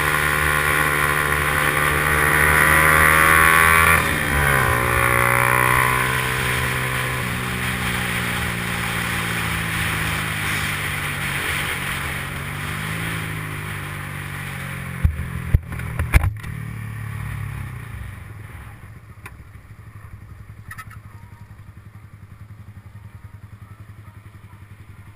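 Yamaha R15's single-cylinder four-stroke engine running at high revs, then dropping sharply about four seconds in and winding down as the bike slows. A few sharp knocks come a little past halfway, and the engine runs low and quiet for the last several seconds.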